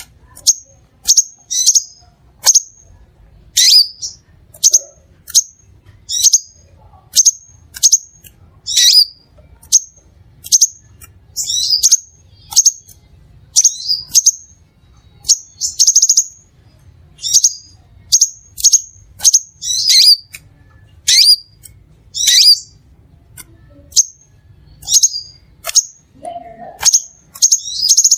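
Crimson sunbird calling: a steady series of short, sharp, high-pitched chirps, about one or two a second.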